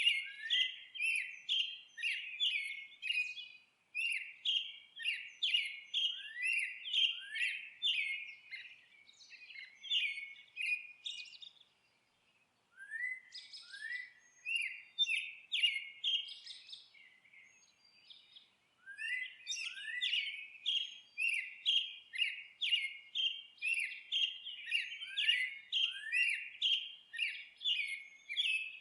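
Songbirds chirping: quick series of short, downward-sweeping high notes, two or three a second, in bouts broken by brief lulls.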